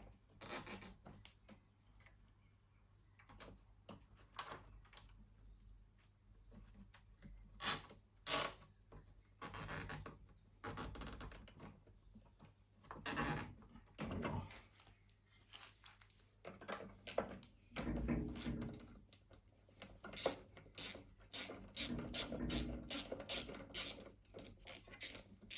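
Hands working on a small lawn mower engine with tools: irregular rubbing and scraping with scattered sharp clicks and knocks of metal and plastic parts, quickening into a run of close clicks in the last few seconds.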